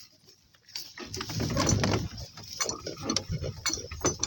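Donkeys walking on leads through tall wet vegetation: rustling with a scatter of short clicks and clinks, as from hooves and halter hardware.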